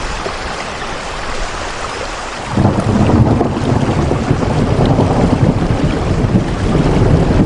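Steady rain hiss; about two and a half seconds in, a loud low rumble sets in under it and keeps going, the deep rolling sound of a storm with thunder or gusting wind.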